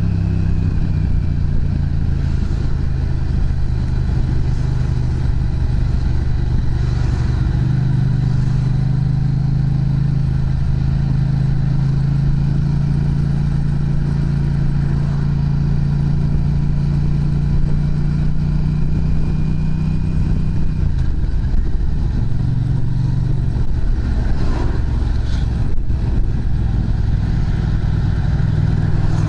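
Yamaha MT-07's parallel-twin engine running through an aftermarket Prunus muffler, holding a steady note for most of the time, then shifting to a different steady note about two-thirds of the way through.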